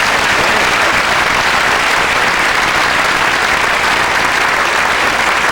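Studio audience applauding steadily after a bird-call imitation.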